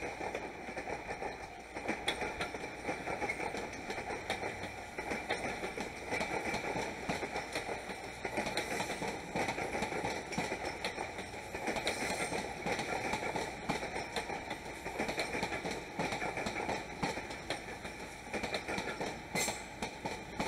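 Passenger train rolling slowly through a rail yard, its wheels clicking and clattering over rail joints and points.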